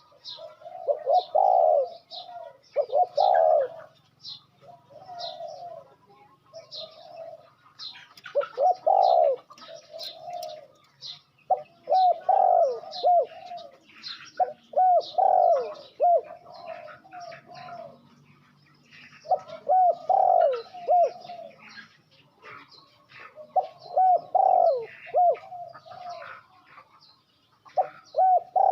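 A dove cooing in repeated phrases of quick rolling notes every few seconds, with small birds chirping higher up between them.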